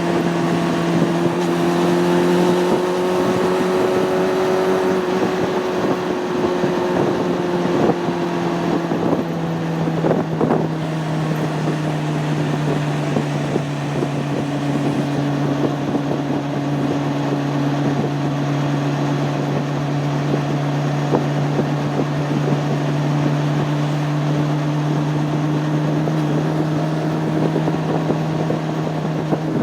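Honda CB600F Hornet's inline-four engine running at steady road speed, with wind on the microphone. About ten seconds in, the engine note drops a little and then holds steady at the lower pitch.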